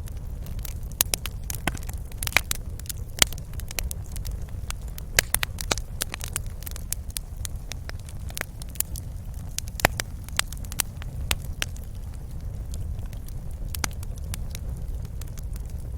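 Wood fire crackling in a fireplace: sharp, irregular pops and snaps, a few louder ones standing out, over a steady low rumble of the burning fire.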